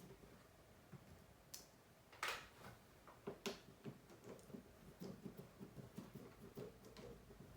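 Faint scattered clicks and taps of a small precision screwdriver and tiny screws being worked out of a smartphone's frame. Two sharper clicks come about two and three and a half seconds in.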